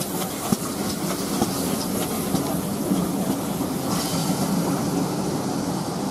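Railway passenger coaches rolling past at close range: a steady rumble of steel wheels on the rails, with scattered clicks as the wheels cross the rail joints.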